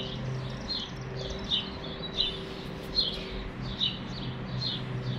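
Small songbirds chirping: short, high, downward-sliding chirps repeated about twice a second, over a faint steady low hum.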